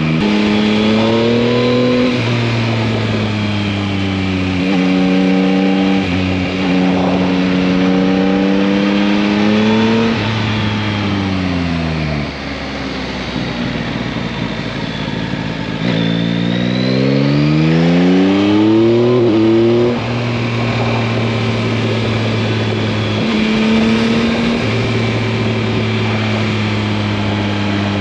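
Yamaha MT-09's 890 cc three-cylinder engine under way, its pitch climbing and dropping back with each upshift. About halfway it falls to a low, slower note. A hard acceleration follows, the pitch rising steeply through the gears, and then it settles into a steady cruise.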